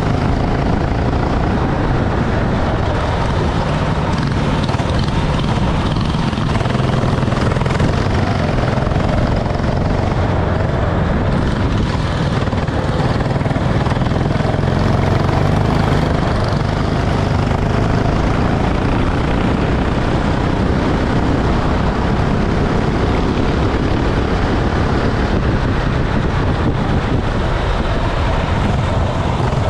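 Racing kart engine running steadily, a continuous engine drone with no clear revving up or down.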